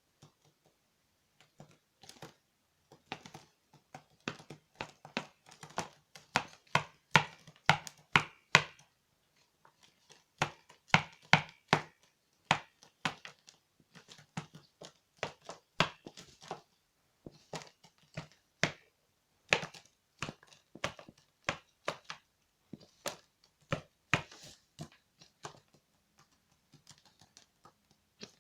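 Magpie hammering with its beak at a spider: many sharp, irregular knocks, often in quick runs of several strikes, typical of a corvid's powerful pecking blows at its prey.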